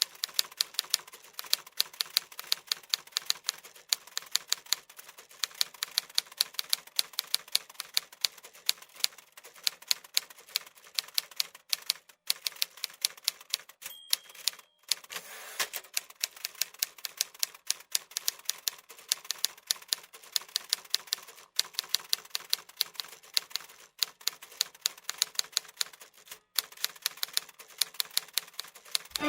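Typewriter keys clacking in quick, irregular strokes, several a second, with a few short pauses. A brief high tone sounds about halfway through.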